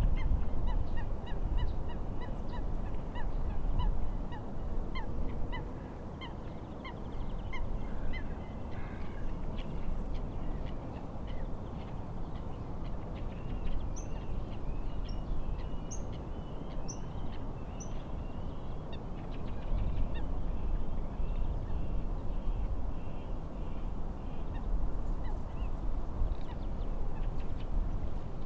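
Birds calling: a run of short repeated calls, about two a second, for the first several seconds, then softer chattering calls with a few high single notes. Underneath is a steady low rush of wind and lapping waves.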